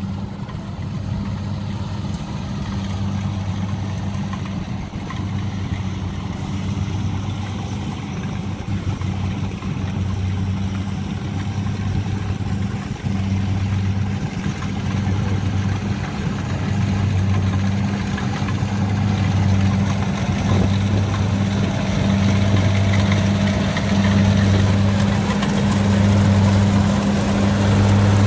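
Kubota DC95GM rice combine harvester running as it cuts, its diesel engine giving a low drone that swells and fades every second or so. It grows gradually louder toward the end.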